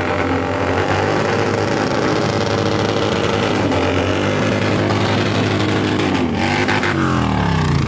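Motorcycle engine running hard and revving, its pitch rising and falling, with a falling glide as the revs drop near the end.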